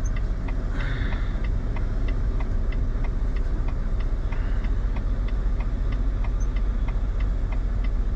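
Semi truck's diesel engine running low and steady, heard from the cab as the rig is maneuvered slowly. A regular ticking repeats about two or three times a second, and a brief hiss comes about a second in.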